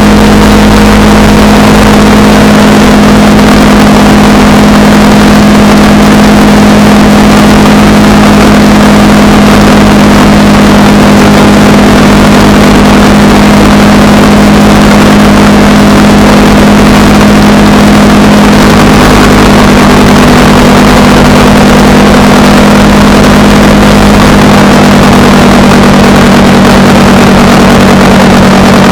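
Honda Rebel 300 motorcycle engine running at a steady cruise, very loud, with a haze of wind and road noise over it.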